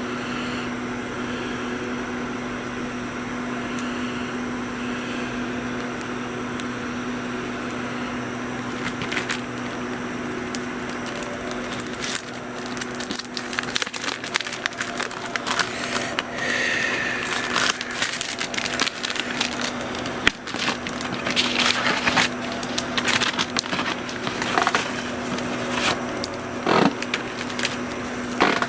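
Wood fire crackling, its pops and snaps growing much more frequent from about nine seconds in, over a steady hum.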